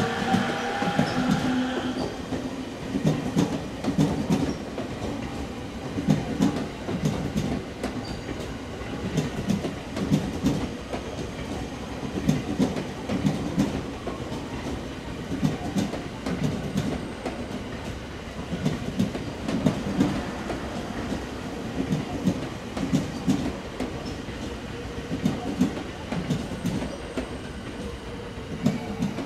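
Electric commuter train rolling slowly along the platform, its wheels clacking over rail joints in a steady rhythm of paired beats, about one pair every second or two. A faint electric motor whine fades out about two seconds in.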